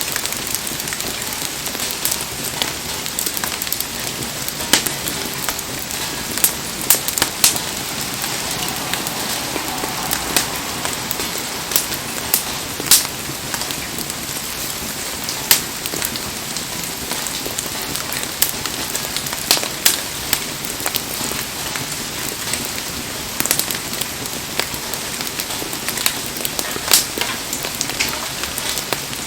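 Heavy rain falling steadily, with scattered sharp pops and crackles from a wood bonfire burning in it.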